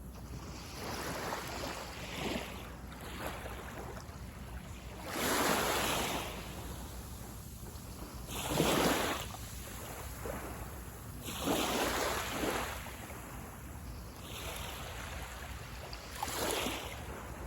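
Small waves breaking and washing up a beach, a surge every three to four seconds over a steady low rumble of surf.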